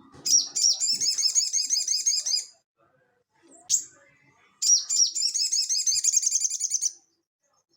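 Sogon (little spiderhunter) singing in its rapid 'ngeleper' style: two fast trills of sharp, repeated high notes, each lasting about two seconds and each led by a single high note, with a pause of about two seconds between them.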